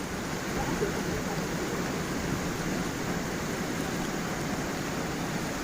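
A small forest waterfall and stream: water flowing and splashing as a steady, even rush with no breaks.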